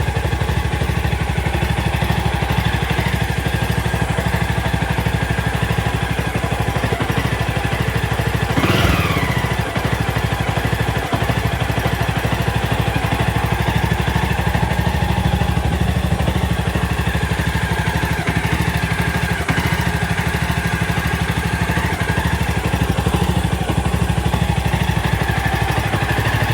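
Jawa 42's single-cylinder four-stroke engine idling steadily through aftermarket stainless-steel scrambler silencers, with an even exhaust beat. About nine seconds in there is one short swell in pitch. The exhaust note is close to the stock sound.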